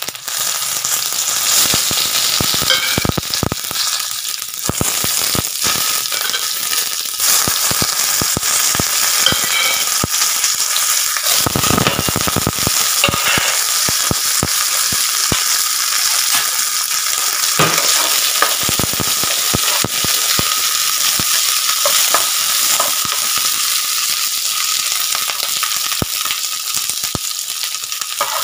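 Whole spices and sliced onion sizzling and crackling in hot oil in a kadhai as a tadka (tempering), with sharp pops throughout and a louder rush of sizzle about halfway through. A spoon stirs through the pan near the end.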